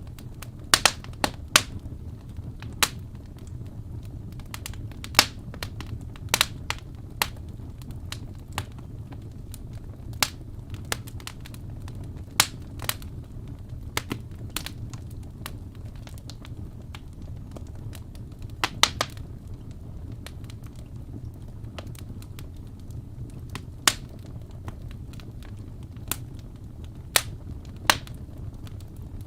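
Wood fire burning in a fireplace: a steady low rumble of flames with irregular sharp crackles and pops of burning logs, clustered near the start and again about two-thirds through.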